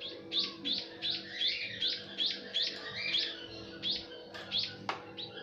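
Small bird chirping: a quick run of short, sharp high chirps, about two or three a second.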